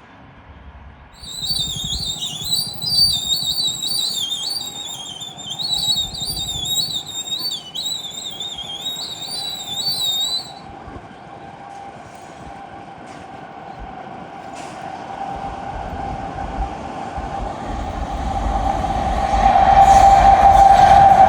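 An Indian Railways train approaching: a low rumble and a steady hum that grow steadily louder, loudest near the end. For the first half, a high, wavering, whistle-like call sounds over it.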